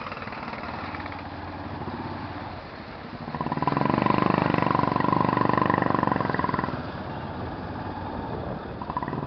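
Motorcycle running along a city road, heard from the rider's position with engine and road noise. The sound swells noticeably louder for about three seconds in the middle, then settles back.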